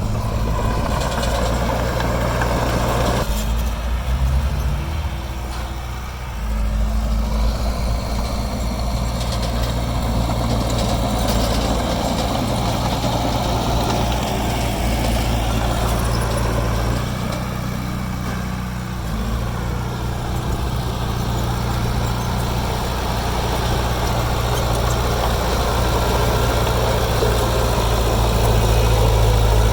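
Heavy construction machine's diesel engine running, its note and load changing every few seconds and growing a little louder near the end.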